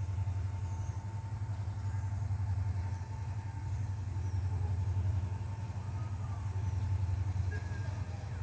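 Train rumbling steadily as it runs over a bridge: a continuous deep rumble with a faint steady whine above it.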